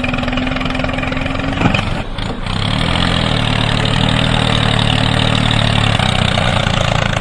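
Motor of a homemade mini tractor running steadily. About two seconds in the note changes and dips briefly, then it settles into a steady, lower hum.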